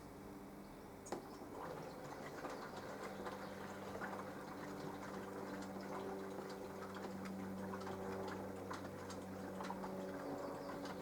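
Mini washing machine running a wash: a steady motor hum, with water sloshing and pattering in the drum and irregular light clicks. There is a sharper click about a second in.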